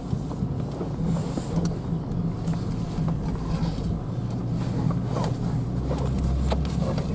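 Pickup truck with a pop-up camper driving slowly on a forest road: steady engine hum with scattered light knocks and rattles.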